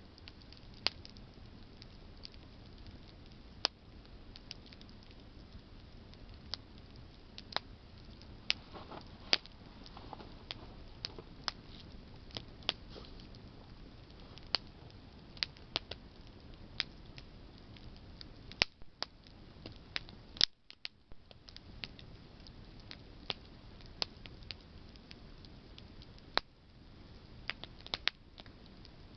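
Campfire of burning branches crackling: irregular sharp pops and snaps over a faint low hiss of the flames.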